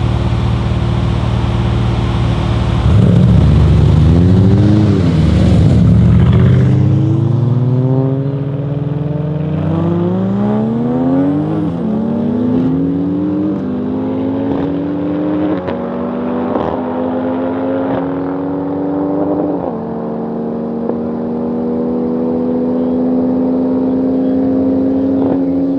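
Heavily tuned high-performance car engine going to full throttle about three seconds in and accelerating hard through the gears, its pitch climbing and then dropping at each of several quick upshifts. It is loudest as the throttle opens and fades as the car pulls away.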